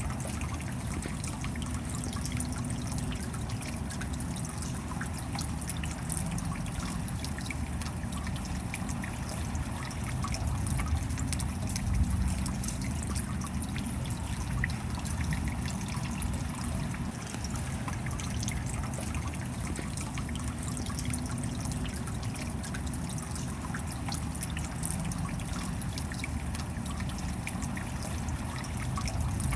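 Steady rain with water trickling and dripping, many small drops ticking over a low rumble.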